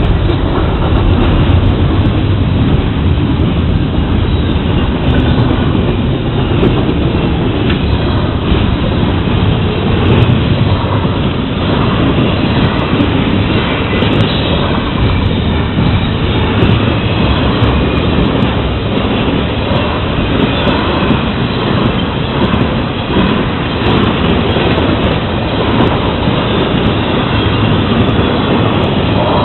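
Florida East Coast Railway intermodal freight train's double-stack container cars and trailer cars rolling past at close range: a loud, steady rumble of steel wheels running on the rails.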